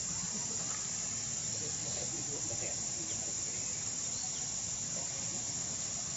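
Steady, high-pitched chorus of insects, with faint voices in the background.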